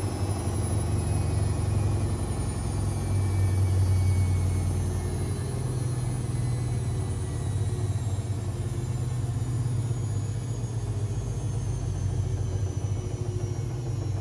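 Privileg 5020 washing machine running, its drum motor giving a steady rumble that wavers a little. The uploader says the motor sounds worn from years of laundromat use.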